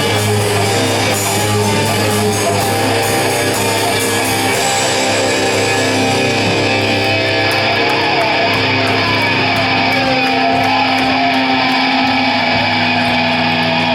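Rock band playing loud, distorted electric guitar with drums. The drums' high crisp strokes stop about four and a half seconds in, and held guitar chords ring on.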